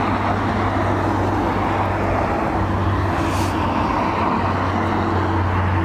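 Steady drone of a Dash 8 turboprop airliner climbing out under power after a go-around, with a low propeller hum and no break in the sound.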